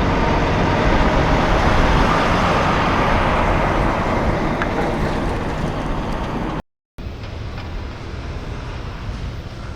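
Heavy truck driving past, its engine and tyre noise slowly fading as it moves away. The sound is cut off abruptly about two-thirds of the way through, followed by quieter, steady road noise.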